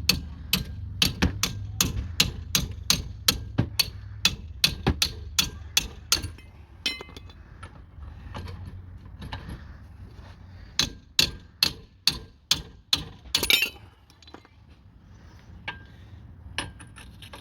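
Hammer blows on metal during work on a rusted wheel hub and brake assembly: a steady run of about twenty ringing strikes, roughly three a second, then a pause, then a second run of about eight strikes. Hammering to free a seized, rusted part.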